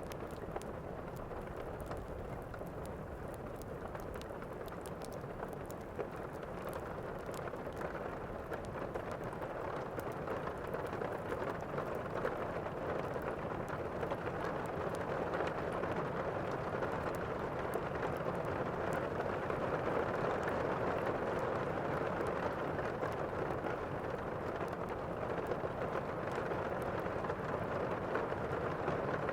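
Thunderstorm ambience: steady rain with a low rumble of thunder underneath, growing gradually louder about a third of the way in.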